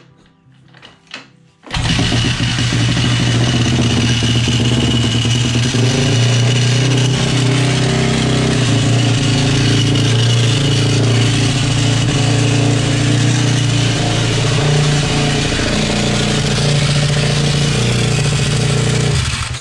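2010 Honda CRF450's single-cylinder four-stroke engine starts about two seconds in and runs steadily and very loudly with an abnormal mechanical noise and a steady high whine, then cuts off just before the end. The engine was run without oil, and the owner wonders whether the noise comes from the crankshaft, a bearing or the cam chain.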